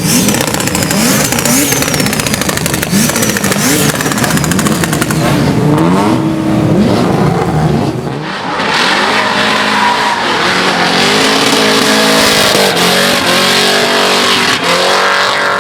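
Car engine revving hard, its pitch swinging up and down, with many sharp pops and crackles from the exhaust. About halfway through the sound changes to a car accelerating, its pitch climbing in several repeated rises.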